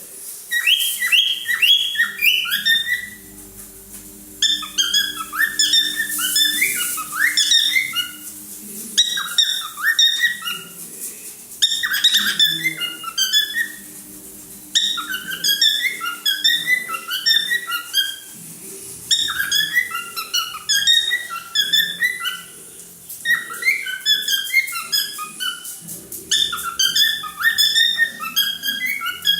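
Cockatiel singing: phrases of quick, chirpy whistled notes, each lasting a couple of seconds, repeated with short pauses between.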